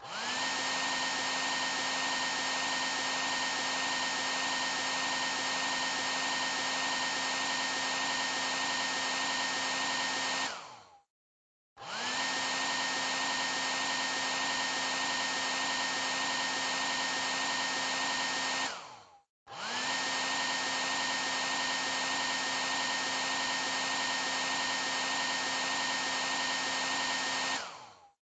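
Hair dryer running with a steady whir and a constant whine. It cuts out three times, about every eight to ten seconds, winding down to silence and then starting up again within a second. This is the behaviour of a faulty hair dryer.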